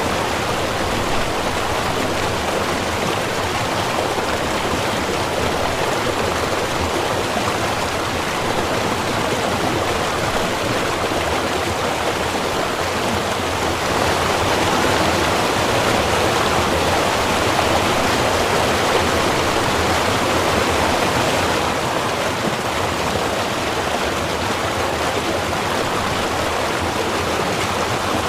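Small river or stream running, a steady dense rush of water, swelling slightly louder for several seconds midway.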